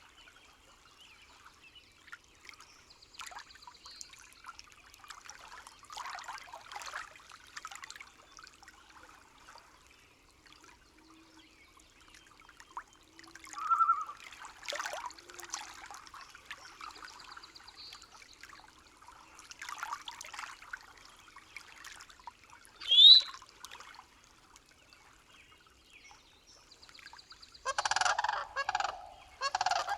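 Forest nature soundscape with scattered bird calls and a brief rising whistle-like call, then a run of loud, rapid bird calls near the end.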